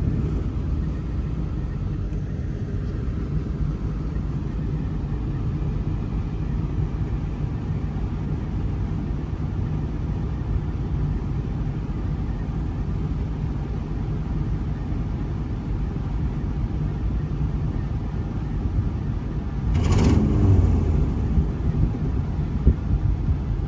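Old farm truck's engine running, a steady low rumble, that swells louder for a moment near the end.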